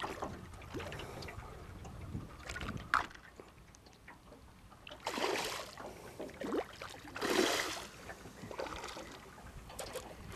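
Water splashing around a hooked red drum fighting at the surface, with two louder splashes about five and seven seconds in, over lapping water and low wind rumble.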